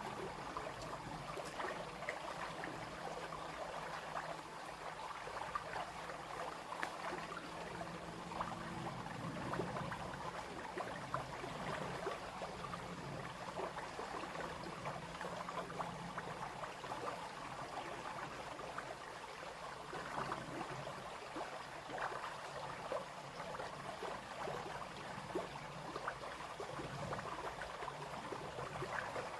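Small brook babbling steadily, water flowing and splashing.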